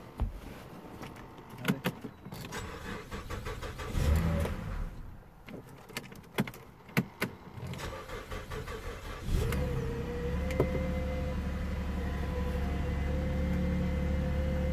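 A car engine cranks and starts about nine seconds in, then idles steadily; a series of clicks and knocks and a short low rumble come before it. The car is the 2008 Chevy Malibu.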